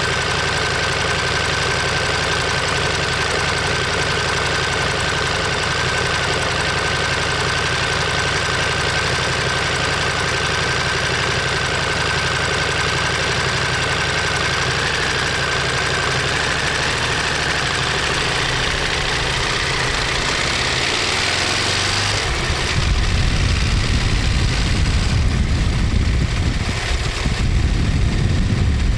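Ducati Monster 1200S's L-twin engine and exhaust running at a steady, even speed. Near the end the engine note shifts and the sound turns louder and rougher.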